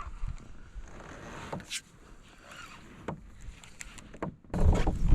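A kayak on choppy water, with scattered light clicks and knocks from the boat. About four and a half seconds in, a gust of wind buffets the microphone with a loud low rumble.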